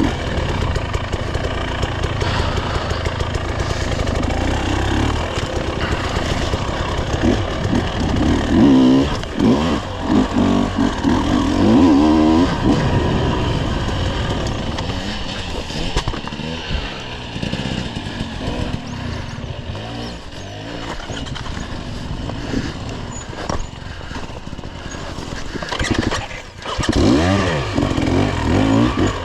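Dirt bike engine running under load on a rough trail, revving up and down repeatedly: hard bursts about eight to thirteen seconds in and again near the end, with steadier running in between.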